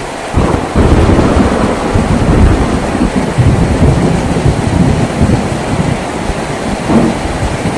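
Thunder rumbling over heavy rain on a tin roof: the rumble breaks in suddenly just after the start, is loudest over the first few seconds, then eases off, with a smaller swell near the end.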